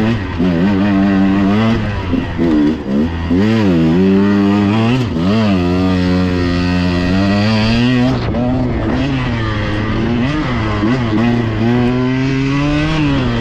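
2021 KTM 125XC two-stroke dirt bike engine being ridden over rough ground, revving up and down with quick throttle blips and shorter stretches held steady.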